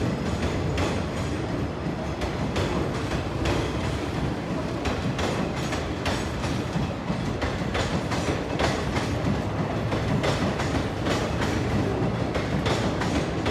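Train wheels clattering over rail joints and points with a continuous low rumble, heard from aboard a moving passenger train.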